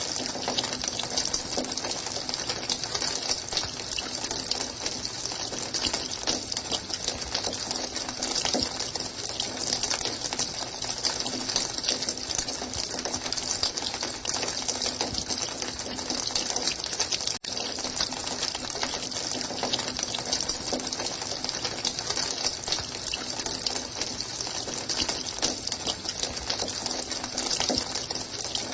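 Running water pouring and splashing in a steady, even rush, brightest in its high hiss, with a faint low hum beneath. It drops out for a split second about two-thirds of the way through.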